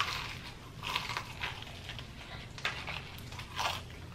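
Close-up crunching and chewing of crispy fried chicken: several short crunches of the breaded skin at irregular intervals, the loudest right at the start and about a second in.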